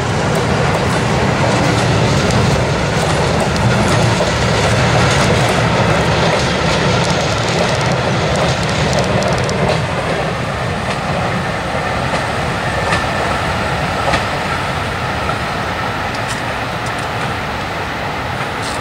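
Passenger train coaches rolling past on the rails, with a steady rumble and the clicking of wheels over rail joints, easing slightly in the second half as the last coaches move away.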